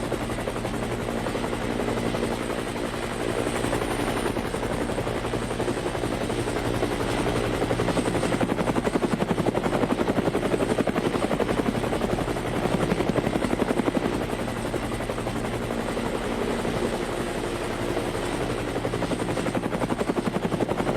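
Helicopter flying, its rotor beating in a fast, steady rhythm over the engine's drone, swelling and easing slightly in loudness.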